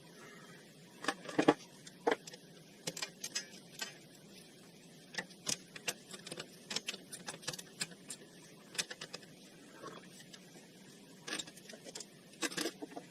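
Irregular metallic clinks and clanks of hand tools and metal parts being handled during ATV hub work, with a cluster of louder knocks about a second and a half in and another near the end.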